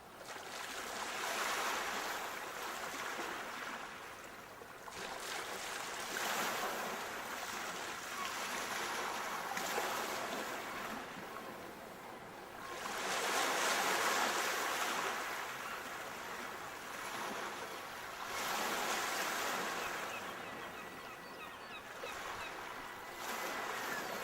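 Sea waves breaking on the shore, the surf swelling and fading in repeated surges about every four to five seconds, the loudest about halfway through.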